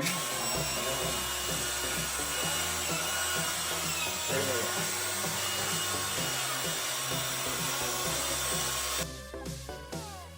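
A power tool runs steadily over electronic background music with a regular beat, then cuts off about nine seconds in, leaving the music alone.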